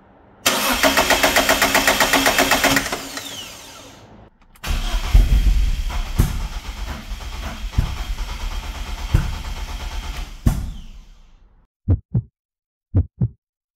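BMW M42B18 four-cylinder engine cranked on the starter with rapid, even pulses for about two seconds. After a break it runs cold and then fades out. Near the end come pairs of short, low thumps about once a second, like a heartbeat.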